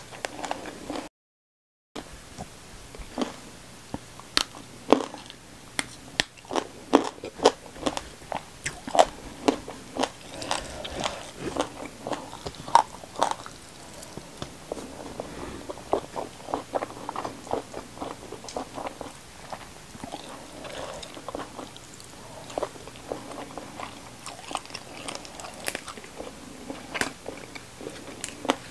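Close-miked eating sounds: crisp crunching bites and wet chewing of raw vegetables such as pea eggplants, and fried fish with rice eaten by hand. The bites come thick and fast through the first half, then thin out. The sound drops out completely for a moment about a second in.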